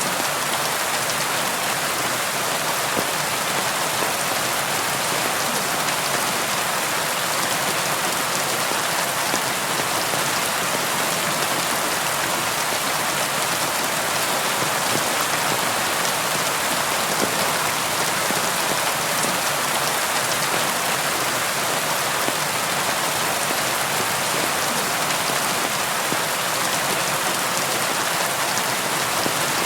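Steady rain falling on a surface, a dense even patter of raindrops without thunder.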